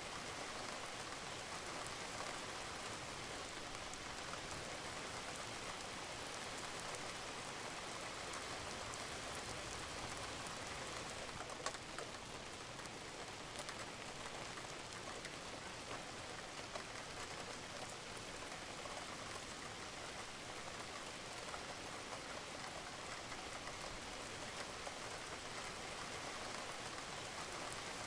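Steady rain falling on a roof, with scattered drops ticking through it and one sharper drop about twelve seconds in.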